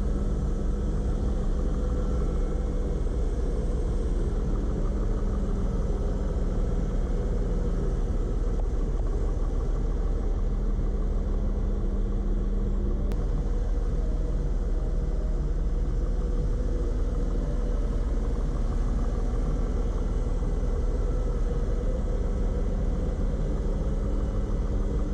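1986 Mercedes-Benz 300E's straight-six engine idling steadily, a constant low rumble.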